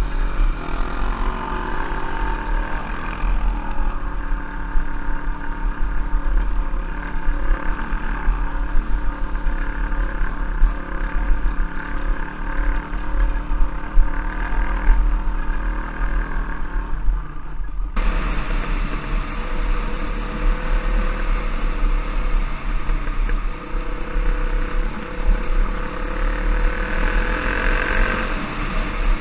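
Trail bike (off-road motorcycle) engine running as the bike is ridden, with low wind rumble on the camera microphone. The sound changes abruptly about two-thirds of the way through.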